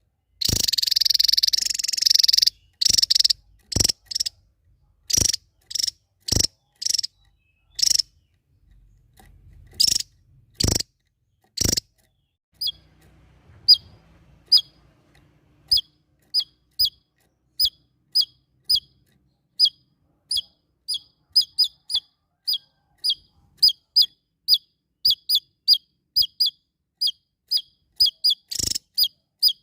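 Small songbird calling: loud, sharp calls about once a second, with one longer noisy call near the start, then from about halfway a steady run of short high chirps, each dropping in pitch, about two a second.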